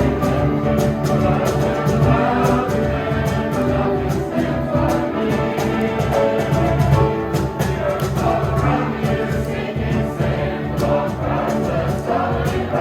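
A choir singing gospel-style music with instrumental accompaniment and a steady beat.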